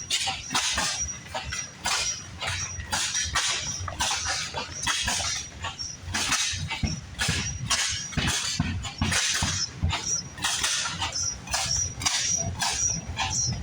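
Vintage engine running, a quick, uneven stream of exhaust beats.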